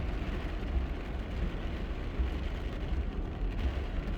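Steady thunderstorm noise of wind and rain, with an irregular low rumble of wind gusting on the microphone.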